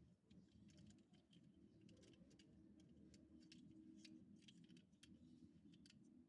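Faint, irregular light clicks and taps of diecast toy trucks and their plastic packaging being handled, over a low steady room hum.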